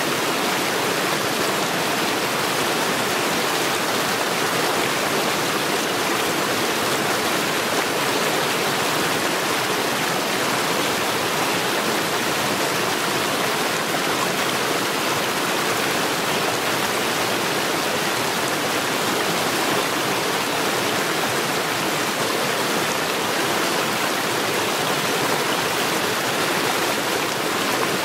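Stream water rushing over stones, a loud, steady, unbroken rush.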